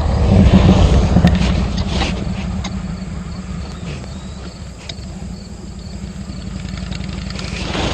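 Motorcycle engine idling steadily, louder for the first second or so.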